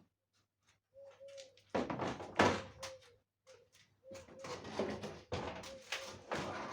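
Handling noises: irregular knocks, thuds and clatter, as of an appliance's panels or parts being moved and set down. The busiest stretch is about two to three seconds in, and it picks up again from about four seconds on.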